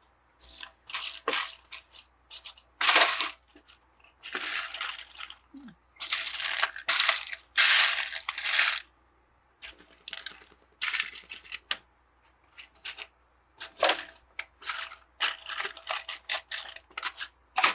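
Loose plastic Lego pieces clicking and clattering as a hand sifts through them: a run of sharp clicks with several longer rattles lasting about a second each.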